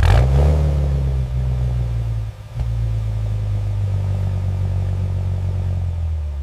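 Volkswagen Golf R's turbocharged four-cylinder EA888 engine firing up and settling into a steady, low idle, with a brief dip a little over two seconds in.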